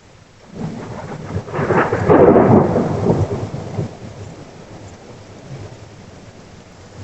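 Thunder from a close lightning strike: a crashing rumble that starts about half a second in, is loudest two to three seconds in, and dies away by four seconds, over steady rain.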